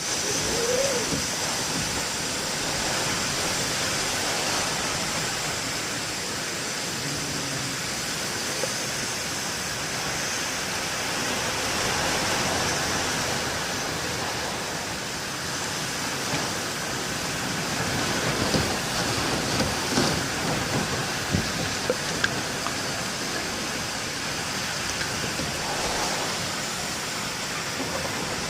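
Heavy rain falling in strong wind, a steady dense hiss. Between about two-thirds and three-quarters of the way through, a run of sharp ticks and knocks stands out above the rain.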